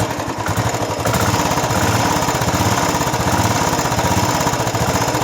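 Royal Enfield Classic 350's twin-spark single-cylinder engine idling, heard at its exhaust silencer as a steady, even thumping beat that gets a little louder about a second in.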